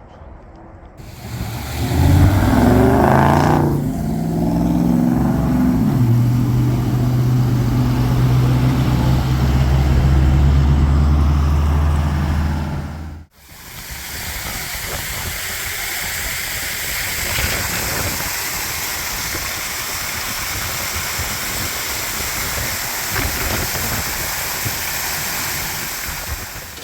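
A loud, low, steady mechanical hum whose pitch steps up and down a few times before holding level. It cuts off suddenly about halfway through, and a steady rushing hiss of wind noise follows.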